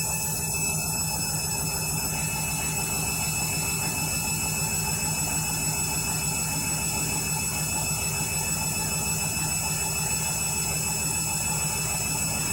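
Candy washing machine in its final spin at about 400 rpm: the drum turning and the motor running with a steady hum and a few constant whining tones.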